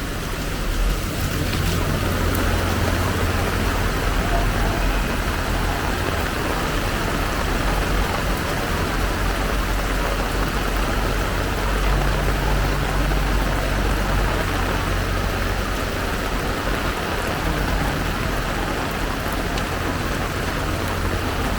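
Heavy downpour: a steady hiss of pouring rain over a low, continuous rumble.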